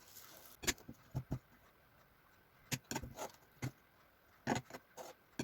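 Spoon and food container being handled at the table: about ten short, sharp clicks and clinks, scattered irregularly over a few seconds.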